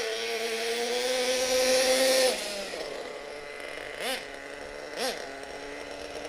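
Single small nitro engine of a Hot Bodies Lightning GTX2 RC monster truck, running very rich on one of its two engines. It holds a high, slowly rising rev for about two seconds, drops back, then gives two short throttle blips near the end.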